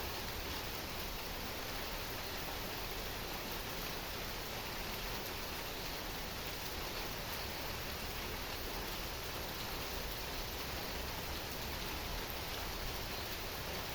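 Heavy rain falling steadily: an even hiss with a few faint drop ticks.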